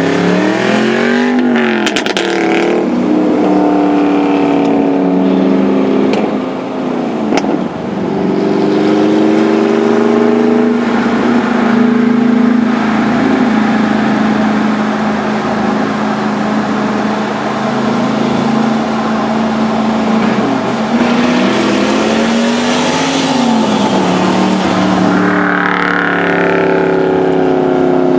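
Pontiac GTO's 6.0 L V8 with muffler-deleted exhaust, heard from inside the cabin, running loud under load on the highway. Its pitch rises with throttle and falls sharply about seven seconds in, as at a gear change.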